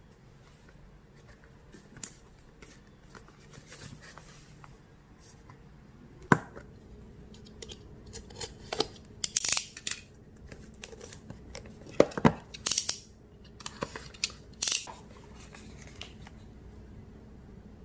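Handling sounds: a scatter of sharp snips, clicks and short hissy rustles, bunched through the middle seconds with a few louder clicks among them.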